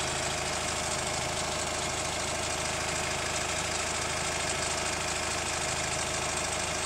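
Hyundai ix35 CRDi 136 hp diesel engine idling hot, with a steady running sound and a repeated 'khrum-khrum' crunching knock. The owner suspects the hydraulic lifters or the chain tensioner; the noise goes away after a fresh oil change and comes back within a few weeks.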